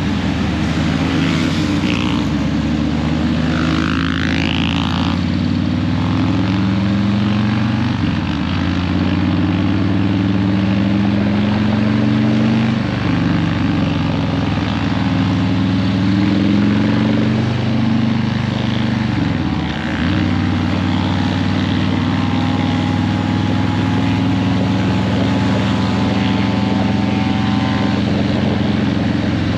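Harley-Davidson Breakout 117's Milwaukee-Eight 117 V-twin running through Vance & Hines Eliminator 300 slip-on mufflers while riding. The engine note climbs steadily and then drops sharply several times, as the throttle is rolled on and off through the gears.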